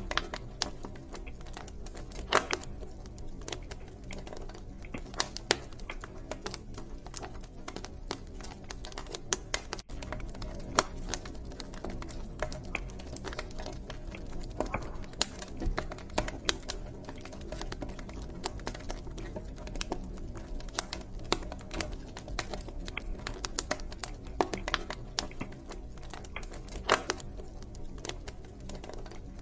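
Wood fire crackling and popping in a fireplace: frequent irregular sharp pops and snaps over a steady low rumble of burning.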